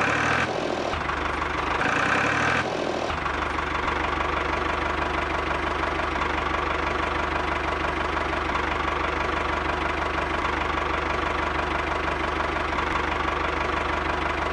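Tractor engine idling steadily with a fast, even knock.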